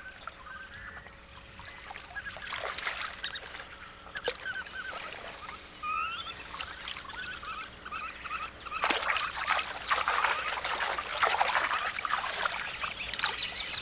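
Marsh ambience: waterbirds calling in many short, repeated notes, with water splashing from about nine seconds in.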